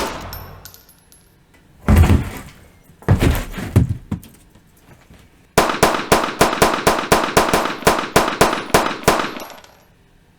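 Gunshots: a single shot about two seconds in, a few more a second later, then a rapid string of about fifteen shots, roughly four a second, for nearly four seconds.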